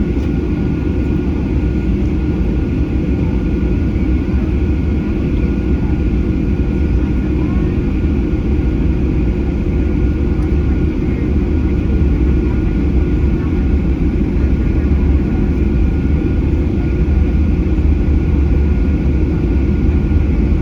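Steady jet engine and airflow noise inside the cabin of a Boeing 737-800 with its CFM56-7B turbofans running, a deep rumble with a thin steady whine over it, growing slightly louder about halfway through.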